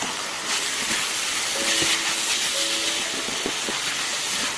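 Diced chicken thigh, onion and garlic sizzling steadily in hot oil in a pan as they are stir-fried with a wooden spatula. Soft piano music plays underneath.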